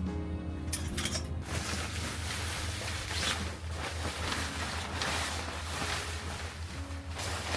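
Sea waves washing in on the shore, the surf swelling and easing every second or so, over a steady low rumble of wind on the microphone.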